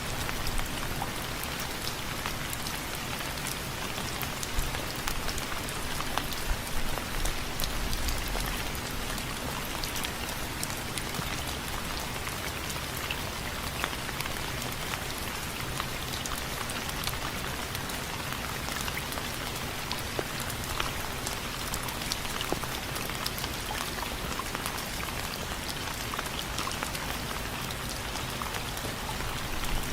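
Steady rain, with individual drops ticking sharply on a window frame over a continuous hiss of rainfall.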